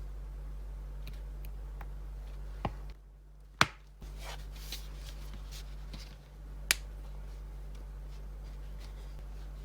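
Three sharp clicks from handwork on the felt pouch, the loudest about three and a half seconds in, with fainter ticks and handling between. A steady low electrical hum runs underneath.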